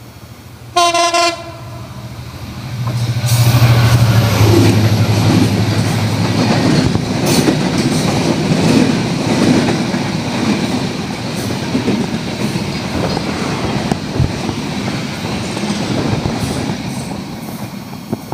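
A Bangladesh Railway intercity passenger train, hauled by a diesel locomotive, sounds one short horn blast about a second in. It then runs through at speed: the locomotive's engine hum comes first, then the coaches clatter and rattle over the rail joints, and the noise eases off near the end as the train pulls away.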